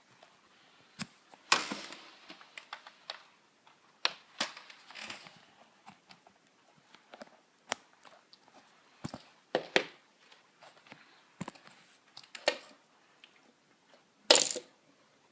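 Scattered clicks, taps and short rustles of a fidget spinner being handled and set on the floor, with no steady spin to be heard. The loudest is a brief clatter near the end.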